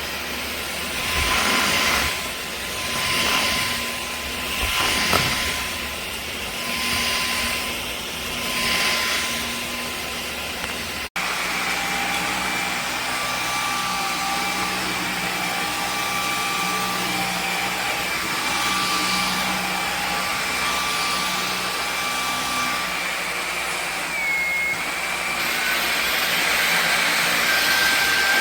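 Cordless stick vacuum cleaner running, its sound swelling and easing about every two seconds as it is pushed back and forth. Near the middle it cuts abruptly to a steadier run with a thin high whine.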